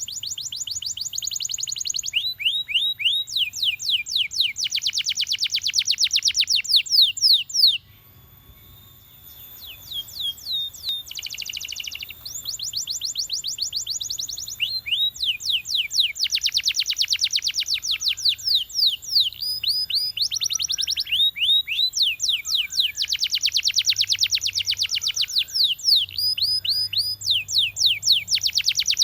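Domestic canary singing a long song of fast trills, each phrase a rapid run of repeated falling notes that changes speed and pitch from one phrase to the next, with a brief pause about eight seconds in before the song picks up again.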